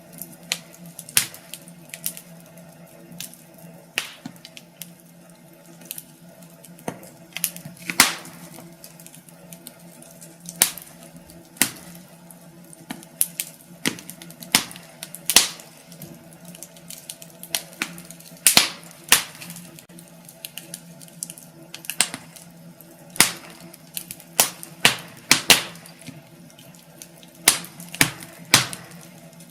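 Wood fire in a fireplace crackling, with irregular sharp pops and snaps, some close together and some louder than others, over a steady low hum.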